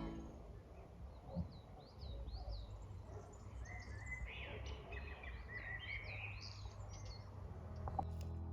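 Small songbirds chirping and singing: a run of short high chirps and a warbling phrase over a faint low outdoor rumble, with a small knock about a second and a half in.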